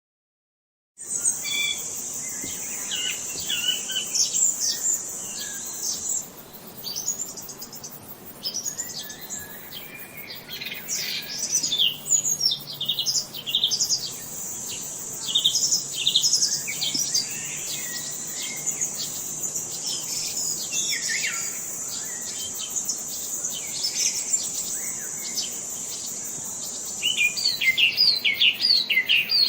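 Songbirds chirping and twittering in many short calls. Behind them runs a steady high-pitched insect trill that drops out for a stretch in the middle. The sound begins after about a second of silence.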